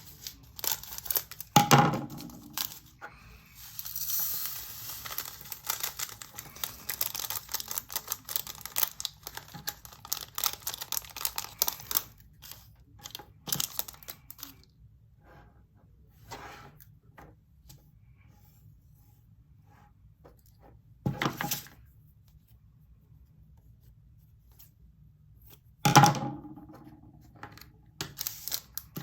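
Handling of small plastic bags of diamond painting drills and plastic storage containers: a long stretch of crinkling and rustling, scattered light clicks, and three sharp knocks of plastic set down on the table.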